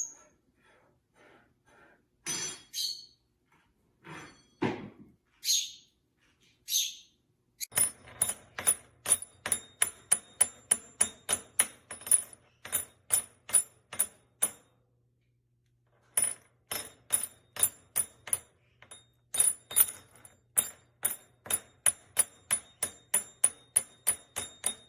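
A pet bird pecking rapidly at a hard, ringing object: sharp taps about three to four a second, in two long runs with a short pause between them. A few short chirps come before the pecking starts.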